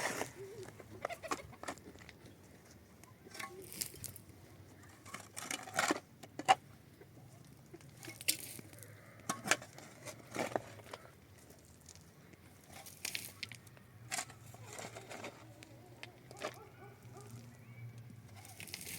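Irregular clicks, taps and knocks, as of objects being handled, with one sharp louder knock about six and a half seconds in, over a faint steady low hum.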